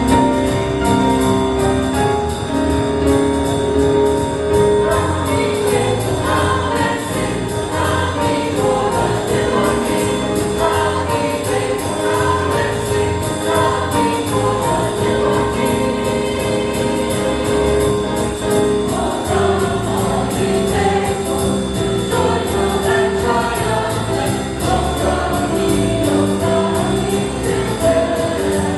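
Church choir singing a jazz-style Christmas cantata number with instrumental accompaniment.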